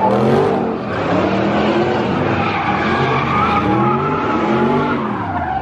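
Car engine revving up and down repeatedly while its tyres squeal steadily: a car spinning its tyres.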